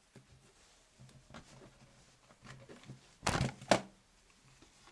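Hand-handling noise from repair-kit items on a table: a few light taps and rustles, then two louder rustling scrapes a little over three seconds in.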